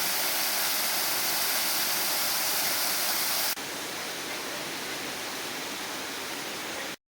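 Waterfall: a steady rush of falling water. About three and a half seconds in it cuts abruptly to a quieter rush of water, and it cuts off to silence just before the end.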